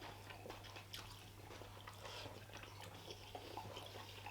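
Faint close-up chewing and mouth sounds of people eating pork curry and rice, with scattered small clicks over a steady low hum.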